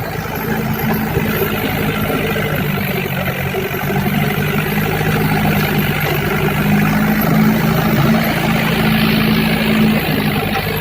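Tractor's diesel engine running steadily, its hum holding an even pitch, a little louder after about half a second.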